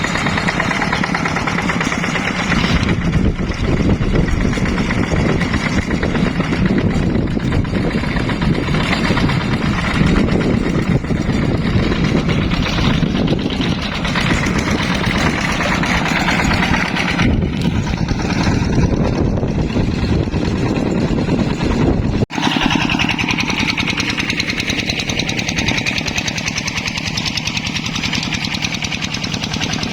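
Yanmar hand tractor's single-cylinder diesel engine running steadily while plowing, a dense, rapid chugging. About 22 seconds in the sound drops out for an instant, then the engine carries on.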